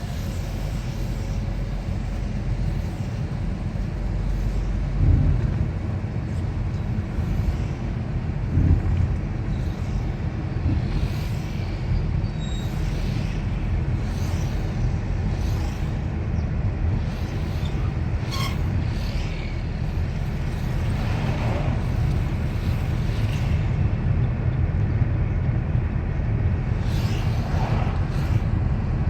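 Outdoor ambience: a steady low rumble with scattered short high chirps, two brief louder swells of rumble about five and nine seconds in.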